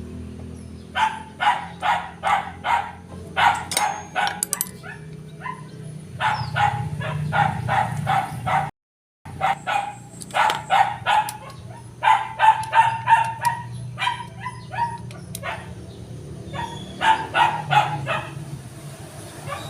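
A dog barking in quick runs of several barks, about three to four a second, with short pauses between runs. A steady low hum runs underneath, and the sound cuts out completely for a moment about nine seconds in.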